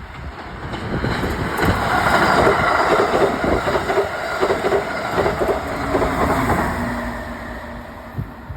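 Train passing on the rails: its running noise builds over the first two seconds, then slowly fades as it goes by.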